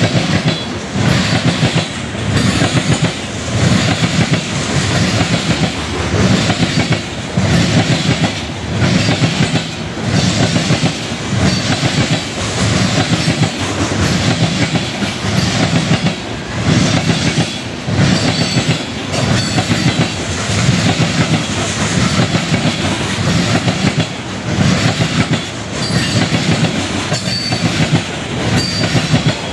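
Freight train cars rolling past close by: steel wheels clattering over rail joints in a steady clickety-clack, a burst a little over once a second, with a continuous rumble underneath. A few short high squeaks come near the end.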